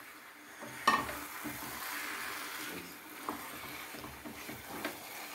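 Marinated chicken pieces sizzling in hot masala in a pan while a spatula stirs them, with a sharp clack of the spatula against the pan about a second in and a few lighter knocks later.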